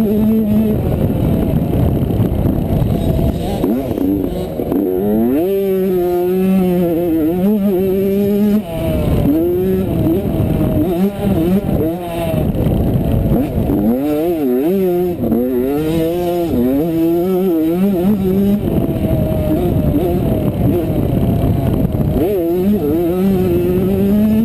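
85cc two-stroke motocross bike engine revving hard under race load, its pitch climbing and dropping back again and again as the rider works through the gears, with stretches held at steady high revs. Heavy wind rush over the helmet-mounted microphone runs underneath.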